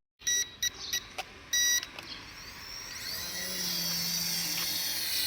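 Small RC helicopter's electronics giving a series of short beeps as it powers on and pairs with its remote, then its small electric motors starting with a faint whine that builds slowly.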